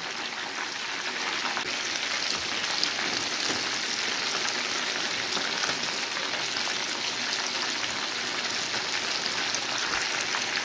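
Chicken pieces frying in hot oil in a pan: a steady sizzle full of fine crackles.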